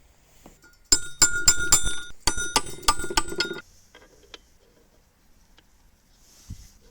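Small hard metal parts clinking and rattling together in two bursts of about a second each, with a ringing metallic tone, followed by a few faint clicks.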